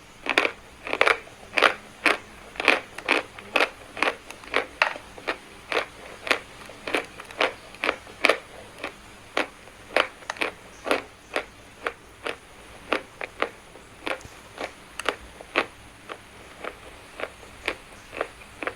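Chalk being chewed close to the microphone: steady dry crunches about two a second, softening somewhat in the second half.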